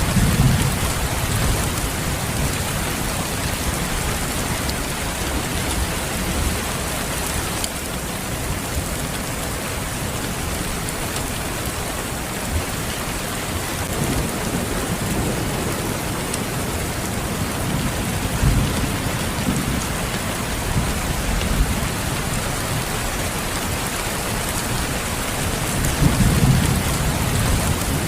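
Steady heavy rain hissing evenly. Low rumbles of thunder swell up near the start, several times midway, and again near the end.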